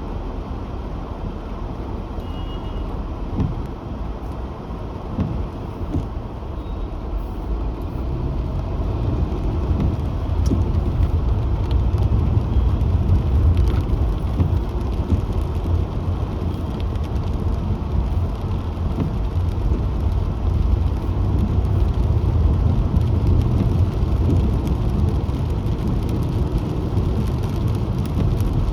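Car driving on wet monsoon roads: a steady low rumble of engine and tyre noise that grows louder about eight seconds in, with a few faint scattered taps.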